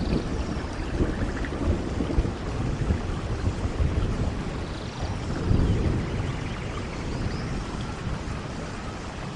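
Thunderstorm: steady rain with low rolling thunder, the rumble swelling about five and a half seconds in.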